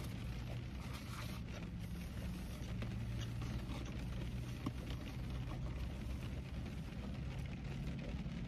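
Steady low hum of a car's idling engine and fan heard inside the closed cabin, with a few faint clicks and rustles of food packaging.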